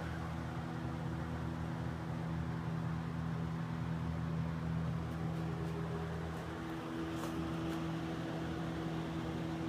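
Mitsubishi Lancer Evolution X's turbocharged 2.0-litre four-cylinder idling steadily on its first start with a freshly installed Borg Warner EFR 7064 turbo kit.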